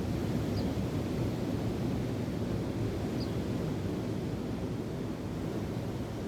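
Steady low rush of wind and surf with wind buffeting the microphone, and a bird giving two faint short high chirps, about half a second in and about three seconds in.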